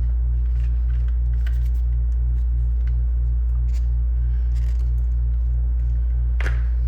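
Steady low electrical hum with a throb that pulses about three times a second. Faint scattered clicks come from small tools and parts being handled on the bench, and there is a brief louder sound a little before the end.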